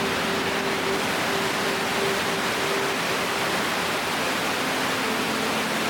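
Steady, even rush of water from an underground stream or waterfall in a limestone cave.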